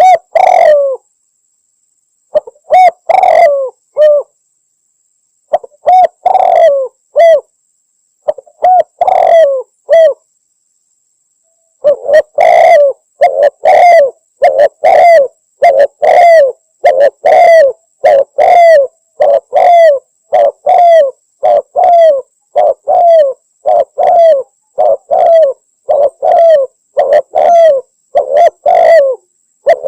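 Spotted dove cooing over and over. In the first ten seconds there are four short phrases of coos with pauses between them. After a pause of about two seconds comes a long unbroken run of coos, a little over one a second.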